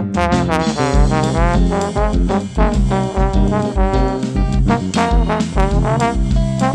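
Trombone playing a melody that slides between notes, over a band with a steady bass beat.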